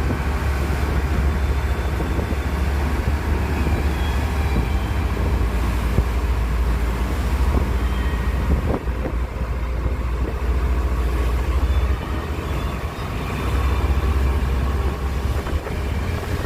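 A boat underway: the steady low rumble of its engine, easing briefly about twelve seconds in.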